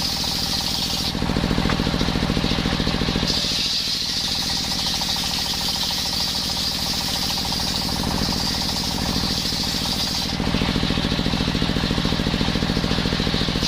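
Circular saw machine running while sawing coconut-wood blocks, a steady fast pulsing sound with a high hiss. About a second in and again about ten seconds in, the high hiss drops away and the low part gets louder for a few seconds.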